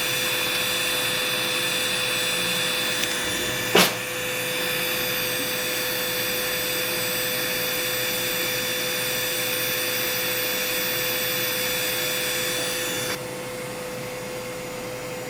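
Electric foot-care drill running steadily while working a corn off the foot, a whir with a steady hiss above it. There is a sharp knock about four seconds in, and near the end the hiss cuts off suddenly, leaving a quieter hum.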